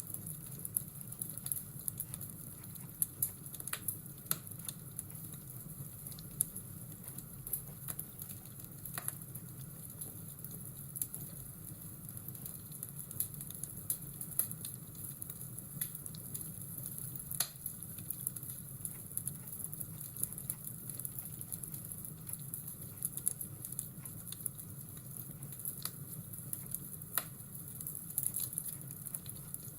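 Fireplace crackling steadily, with scattered sharp pops, over a low steady rumble.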